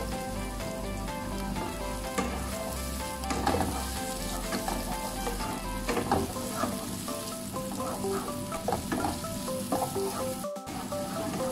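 Sliced onion and minced garlic sizzling in hot oil in a nonstick frying pan. From about three seconds in, a wooden spatula stirs and scrapes the pieces around the pan.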